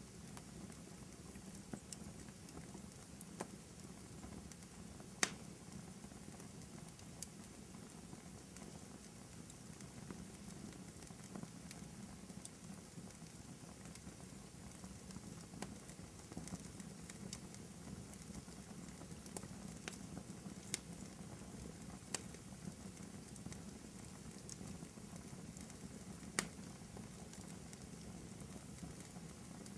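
Wood fire burning in a fireplace: a steady low hiss and rumble with scattered sharp crackles and pops, the loudest about five seconds in and again near the end.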